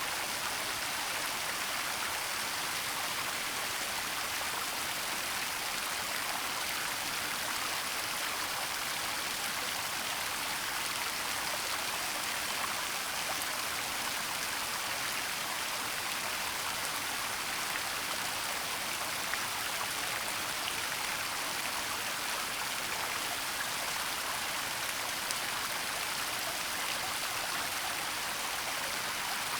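Waterfall in a forest: a steady, even rush of falling and flowing water, with no breaks or changes.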